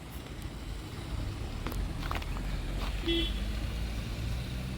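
A road vehicle's engine running as a steady low rumble, with a short horn toot about three seconds in.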